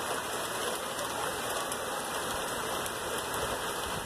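Thunderstorm rain falling steadily, an even hiss without any thunder.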